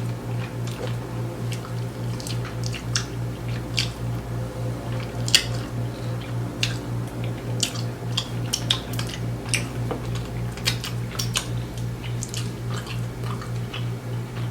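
Close-miked chewing and lip-smacking of a person eating saucy chicken wings, with many short sharp clicks scattered throughout. A steady low hum pulses evenly several times a second underneath.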